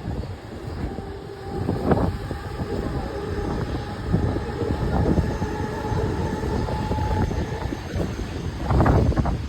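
Mumbai suburban local electric train running on the rails: a steady rumble with repeated knocks from the wheels and a thin steady whine through most of it, growing louder and rattling near the end.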